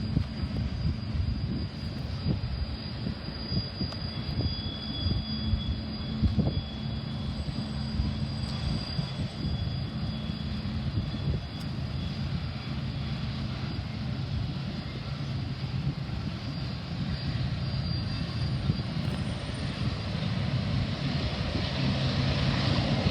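BNSF freight train rolling past: a steady rumble of wheels on the rails, with a thin high squeal through the first half. Near the end a low engine drone grows louder.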